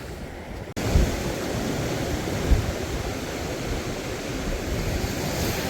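Sea surf washing on a beach: a steady rushing noise, with wind buffeting the microphone in occasional low thumps. The sound jumps abruptly louder a little under a second in.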